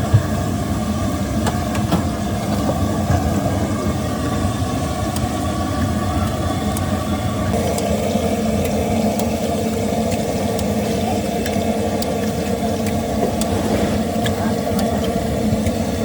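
Steady low rumble of engines from roadside traffic, with a few faint clicks over it.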